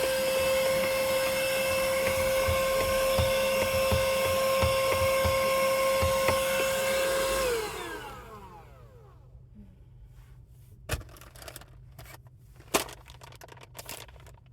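Vacuum cleaner running steadily with a whining motor, switched off about seven and a half seconds in and spinning down with falling pitch. A few scattered knocks and clicks follow.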